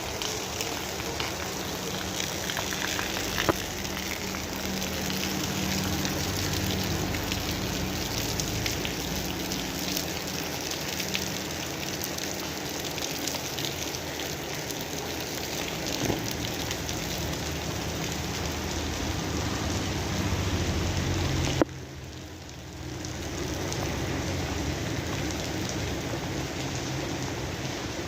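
Steady rain falling: a continuous hiss with a low rumble underneath and an occasional sharp tick. The sound drops away suddenly about three-quarters of the way through and returns a second or so later.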